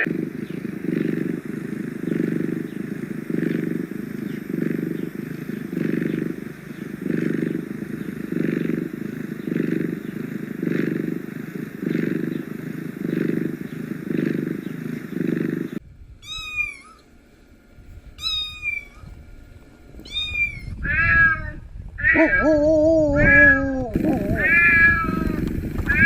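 A cat purring in a steady, rhythmic pulse. Past the halfway point it gives way to thin, high-pitched kitten mews that fall in pitch and repeat about once a second, followed by louder, lower meows near the end.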